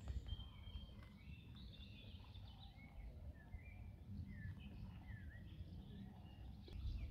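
Woodland birdsong by a lake: several small birds chirping and whistling in short notes, some dipping or rising in pitch, over a faint steady low rumble.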